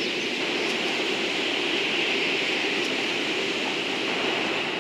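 JR West 115-series electric train rolling slowly toward the platform, a steady noise of wheels on rails and running gear.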